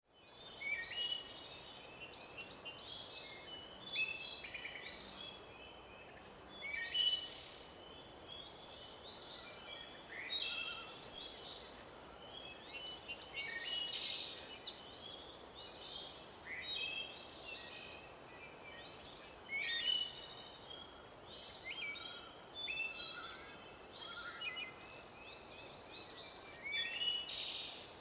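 Several birds singing together: many short, high chirps and trills overlapping, over a light steady background hiss.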